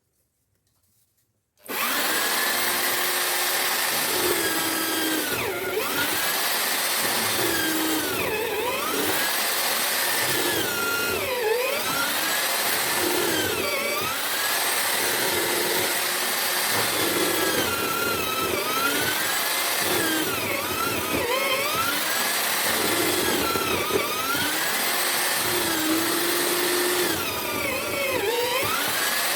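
A homemade mortiser driven by an electric drill starts up about two seconds in and runs steadily. Its motor pitch dips and recovers about every three seconds as the chisel bit is pushed into the wood to cut a mortise.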